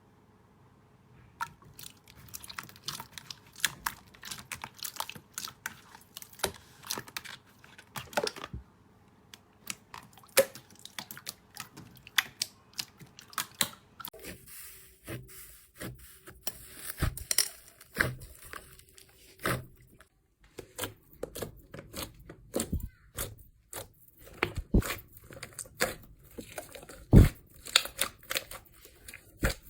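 Slime being squeezed and pressed by hand, giving a dense, irregular run of crackles and pops that starts about a second and a half in.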